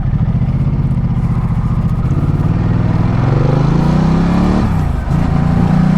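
Ducati Multistrada 1200's V-twin engine under way, pulling with its pitch rising for a couple of seconds, then dropping sharply at a gear change near the end before running steady again.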